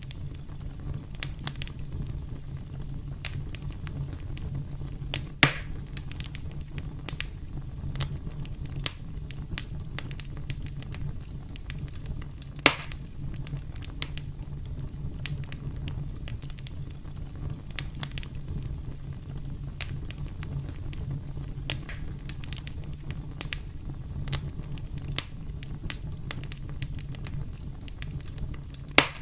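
Campfire crackling: the flames make a steady low rumble under frequent small snaps, with a few louder pops about five seconds in, around thirteen seconds and near the end.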